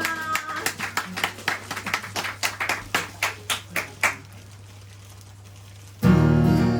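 Rhythmic hand claps, about four a second, stop about four seconds in; after a short pause the band comes in loudly on the first song with strummed guitar near the end.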